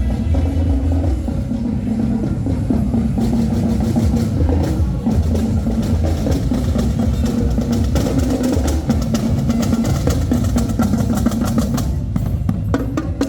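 Marching band drumline playing snare and bass drums, the strokes growing denser and louder near the end, over a steady low bass.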